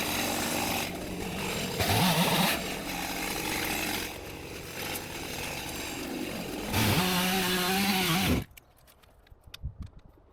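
Chainsaw running at high revs, its pitch sagging and recovering as it loads up in the cut, with louder surges about two seconds in and again near seven seconds. It cuts off suddenly about eight seconds in, leaving only faint ticks.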